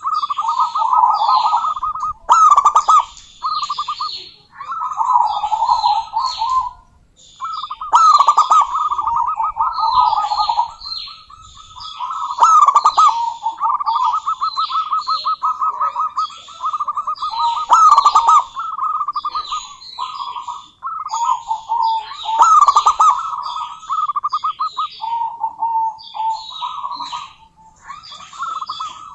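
Female zebra dove calling in long, rapid rattling coo phrases at about one pitch, almost without pause, with sharp high chirps over them.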